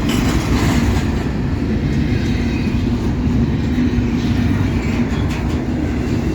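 Intermodal freight trains rolling past at close range: a steady rumble of wheels and cars with a low hum throughout.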